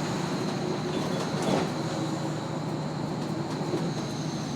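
Road noise heard from inside the cargo box of a moving truck: a steady rumble and drone, with a knock or rattle about a second and a half in.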